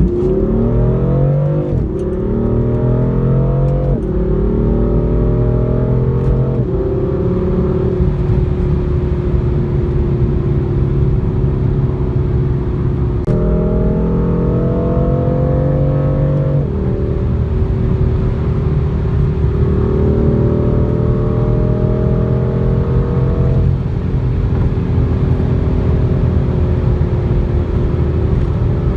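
Car engine accelerating hard through the gears, its pitch climbing and then dropping at each upshift, three times in quick succession. It then settles to a steady cruise, broken by two longer pulls where the engine climbs again before easing off.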